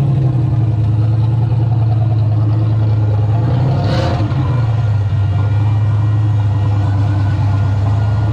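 Turbocharged LS V8 in a square-body Chevy C10 pickup idling steadily, with one brief sharp noise about four seconds in.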